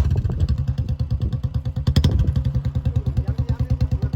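Royal Enfield Bullet 350's single-cylinder four-stroke engine dropping back to idle at the start and then idling with an even thump, about eight to ten beats a second.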